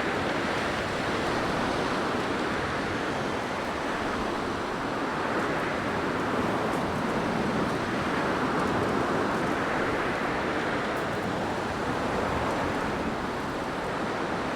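Blizzard wind blowing: a steady rushing noise that swells and eases gently every few seconds.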